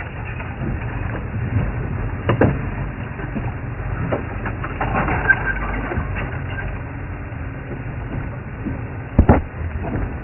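Safari game-drive vehicle running over rough ground: a steady low engine rumble with a few sharp knocks and cracks, the loudest a double knock near the end.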